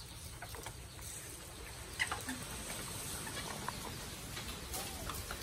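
Faint, scattered short bird calls over a low steady rumble, with a few small clicks.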